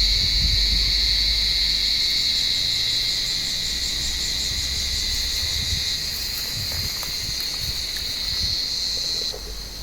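Cicadas singing in the tree: one continuous, steady, high-pitched buzz that slowly fades and drops in level near the end.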